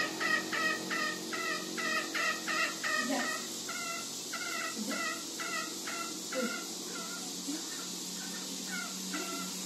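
Green junglefowl giving its rapid cackling 'ngekek' call: a long run of repeated notes, about two to three a second, growing weaker and sparser after about four seconds.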